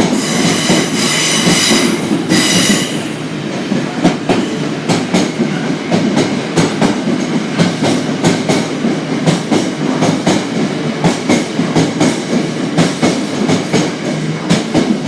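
Class 350 electric multiple unit passing, its wheels clicking steadily over rail joints, with a high whine over the first few seconds.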